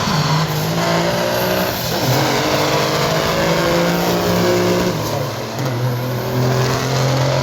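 Big diesel semi-truck engines running loud, their pitch rising and falling as they are revved, with a drop in engine tone about five seconds in.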